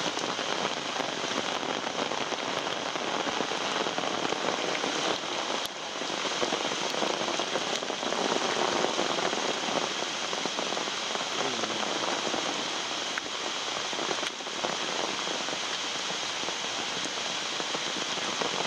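Rain pattering steadily on an umbrella held overhead, a dense, even patter of raindrops.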